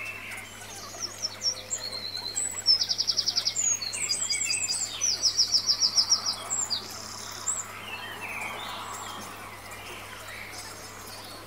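Small birds chirping and singing, with two fast trills of about ten notes a second: a short one about three seconds in and a longer one from about five to nearly seven seconds, among scattered higher chirps.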